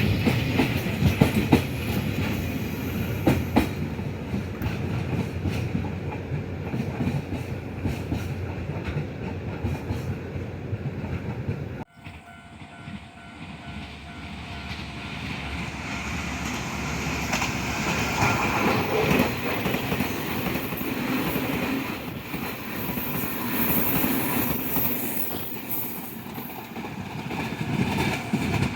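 Trains running through a station, wheels clattering rhythmically over the rail joints. About twelve seconds in the sound cuts abruptly to another train that approaches and grows louder as it passes.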